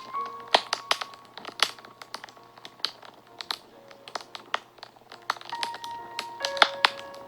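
Wood fire crackling and popping in irregular sharp snaps. Soft background music plays with a few held notes.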